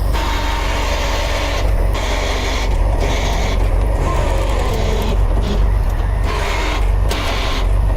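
Heavy tow truck's diesel engine running steadily, with a hiss that cuts out and comes back several times.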